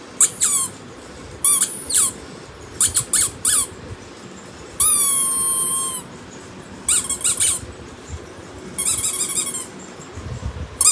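A series of short, high-pitched squeaks in quick clusters, each squeak dropping sharply in pitch as it begins. About five seconds in comes one longer, steady squeal lasting about a second.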